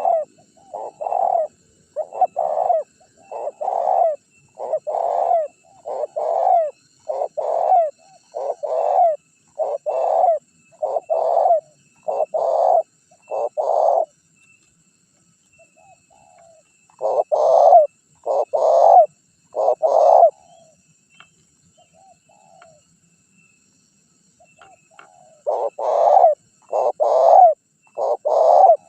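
Spotted dove (tekukur) cooing over and over in short notes, one after another at about one a second. A long run is followed by a pause, three more notes, a longer pause, and a fresh run near the end. This is the busy cooing of a strongly calling bird, used as a lure to make wild doves answer.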